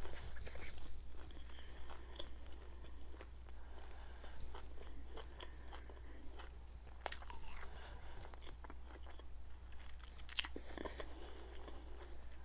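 Close-miked mouth chewing: soft, wet clicks and smacks of a mouthful of food chewed with the lips closed, with a sharper click about seven seconds in and a couple more around ten seconds. A low steady hum runs underneath.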